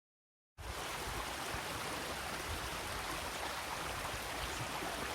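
Steady rush of a stream's flowing water, starting abruptly about half a second in.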